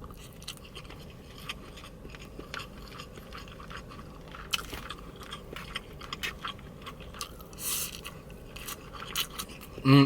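Close-miked chewing and mouth sounds: scattered small wet clicks, with a few brief scrapes.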